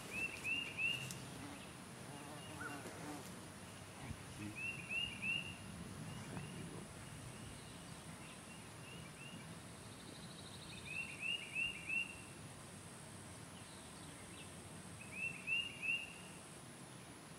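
A bird singing a short phrase of three or four quick, high, rising notes, repeated four times several seconds apart.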